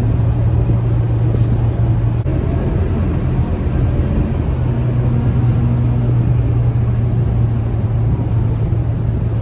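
Scania K230UB bus's diesel engine running with a steady low drone, briefly dipping about two seconds in.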